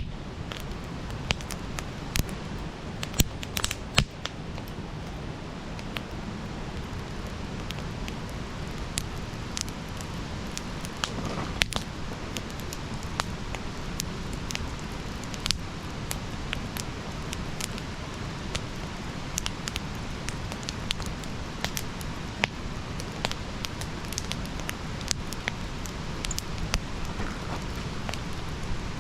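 Wood fire burning: a steady low rush with sharp crackles and pops at irregular intervals, a few louder pops a few seconds in.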